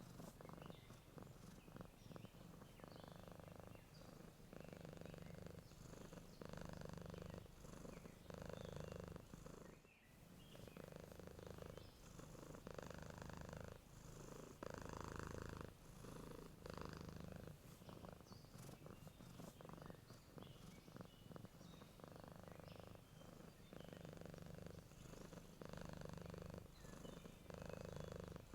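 Domestic cat purring steadily and quietly, the purr pulsing in and out with each breath about once every second or so. Faint bird chirps come and go in the background.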